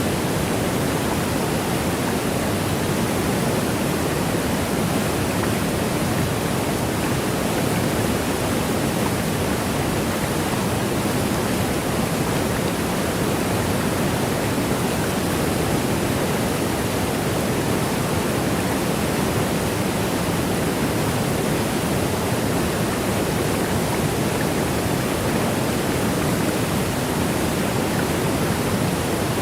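Steady rushing of a waterfall: an even, unbroken wash of water noise that never changes.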